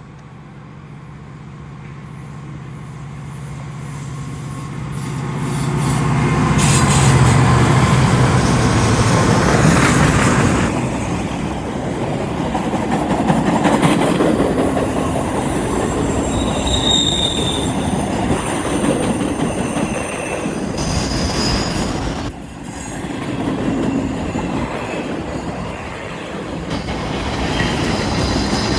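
Diesel freight locomotive approaching, its engine hum growing louder over the first seven seconds. A double-stack intermodal container train then rolls past on a curve, wheels squealing in thin high tones for several seconds midway through.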